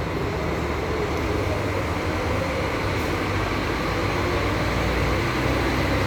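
Diesel engine of a Scania K400 IB double-decker coach running steadily, a low engine drone under road and mechanical noise that grows slightly louder toward the end.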